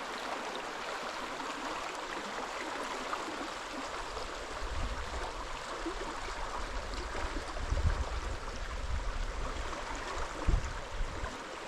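Creek water running in a steady rushing wash. From about halfway in there is a low rumble with gusts, the sound of wind on the microphone.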